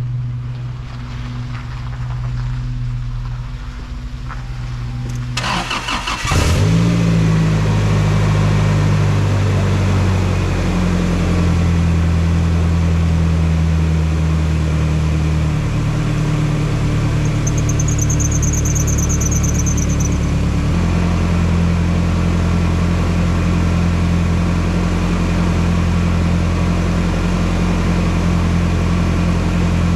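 Toyota Tacoma pickup engine cranked over and caught about six seconds in, then idling steadily. It is left running to burp the air out of its freshly refilled cooling system after a thermostat replacement.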